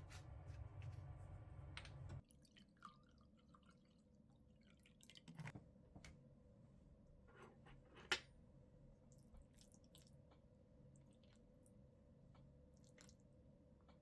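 Near silence: a low hum cuts off suddenly about two seconds in, followed by scattered faint clicks and taps, with one sharper click about eight seconds in.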